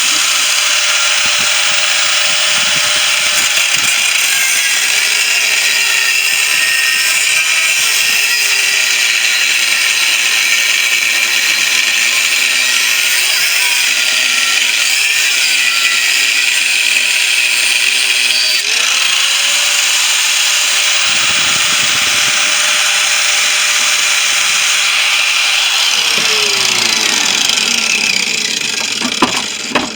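Angle grinder with a cut-off disc cutting through the steel shell of a refrigerator compressor: a steady, loud grinding whose motor pitch dips and recovers as the disc loads. Near the end it is switched off and its pitch falls as it winds down.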